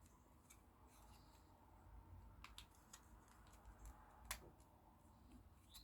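Near silence with a few faint clicks of small plastic model-kit parts being handled and fitted together, the clearest about four seconds in.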